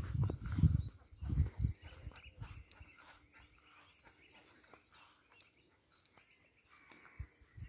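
Small birds chirping with short high calls scattered through it. A few low thuds come in the first second and a half, then it goes quiet apart from the birds.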